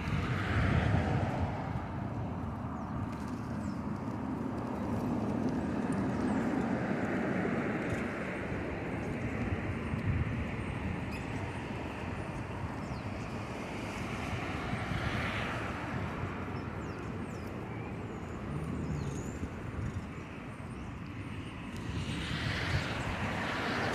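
Wind rushing over the microphone of a moving bicycle, with traffic going past: a swell of passing-vehicle noise about a second in, another around fifteen seconds in, and another near the end.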